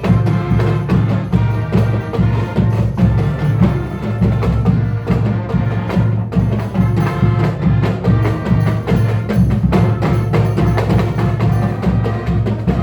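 Marching band playing, with prominent drums and percussion.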